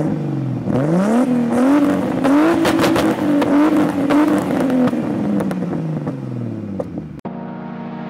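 Turbocharged BMW E46's M50B25 straight-six, fitted with a GT35 turbo, being revved repeatedly while the car stands still: the pitch climbs in several blips, holds high, then sags back toward idle. About seven seconds in it cuts to music with steady held synth tones.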